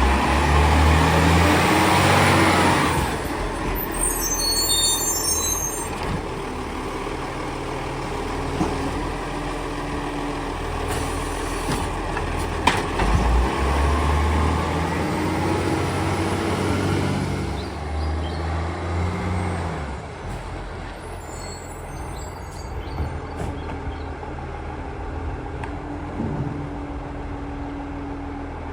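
Garbage truck at work on a bin collection: its diesel engine revs up twice, in the first few seconds and again about halfway through, between spells of idling. A short air hiss comes about eleven seconds in.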